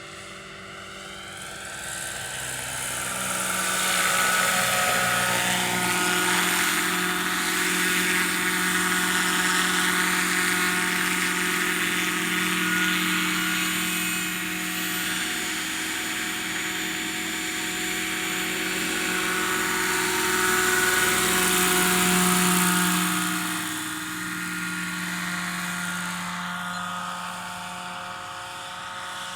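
Scale model of a Lockheed 286 helicopter flying: a steady rotor and engine sound with several held tones. It grows louder over the first few seconds and swells and fades as the model moves about.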